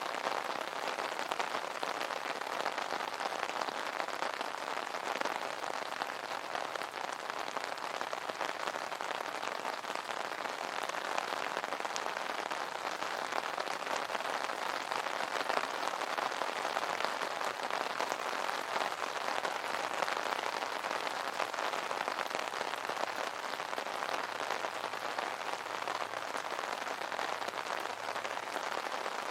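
Steady rain falling on an umbrella: an even, dense hiss of drops with fine individual taps, unchanging throughout.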